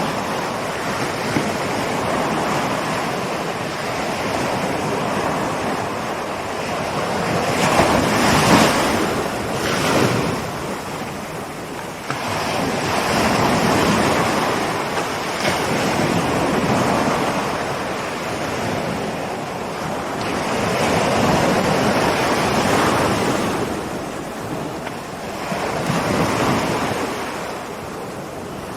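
Ocean waves breaking and washing in, a steady rush of surf that swells and fades every few seconds, loudest in two surges about eight and ten seconds in.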